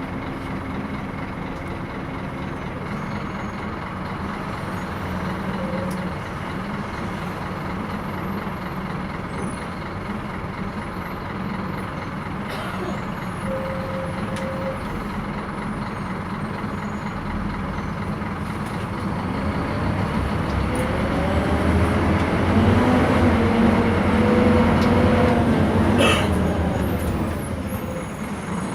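Scania K230 city bus with a ZF automatic gearbox running on the road. About two-thirds of the way through, the engine note rises and grows louder as the bus pulls under load, then eases off. A short sharp sound comes just before the end.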